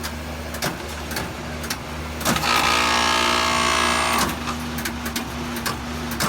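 Air conditioner running with a steady low hum and irregular clicks, broken a little over two seconds in by a loud buzz lasting about two seconds. These are the unusual noises the owner finds strange.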